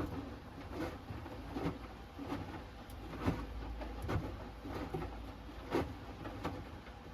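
Hoover Axi 10 kg front-loading washing machine tumbling a load on its Rapid 30' programme. Laundry and water slosh and thud in the turning drum about every 0.8 s over a low steady hum.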